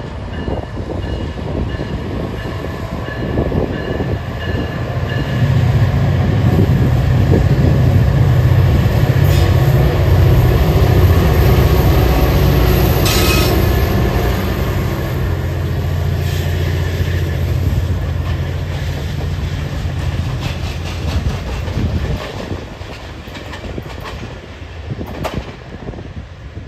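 Passenger train with a diesel locomotive passing: a steady low engine drone over the rumble of the train, building a few seconds in, loudest through the middle, then fading away near the end.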